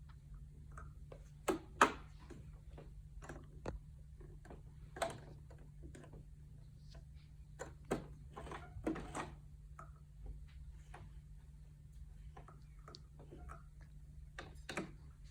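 Scattered light clicks and knocks from handling a sewing machine and fabric while the stitch setting is changed for a bigger stitch, with a steady low hum underneath. The machine is not sewing.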